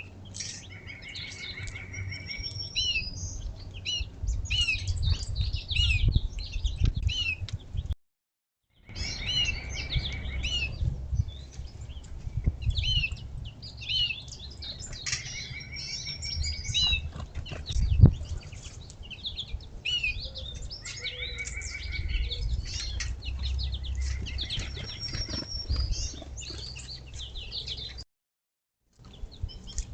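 A busy mix of small feeder songbirds (finches, titmice, chickadees) chirping and calling over one another, with short down-slurred notes and buzzy call runs, over a low rumble. A single sharp knock about eighteen seconds in is the loudest sound, and the sound drops out completely twice for under a second.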